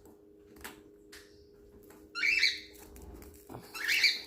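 Caged pet birds calling: two short squawks, about two seconds in and again near the end, with a few faint clicks between them, over a faint steady hum.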